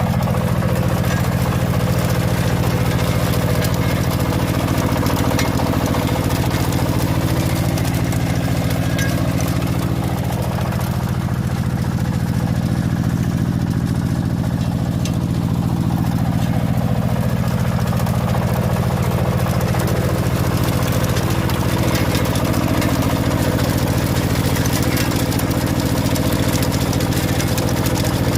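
Engine of a potato-digging machine running steadily.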